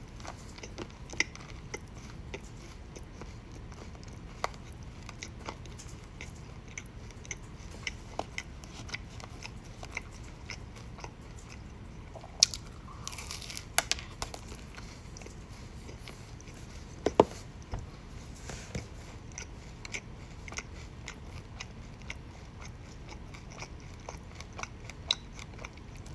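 Close-up chewing of crunchy food: irregular sharp crunches and clicks, with a few louder bites in the middle.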